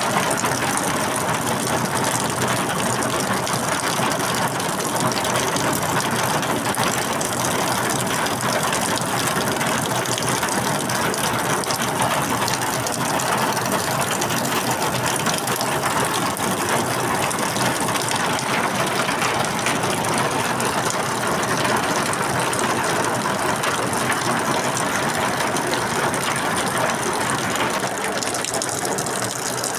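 Steady rain falling, a dense patter of many small drop impacts without let-up.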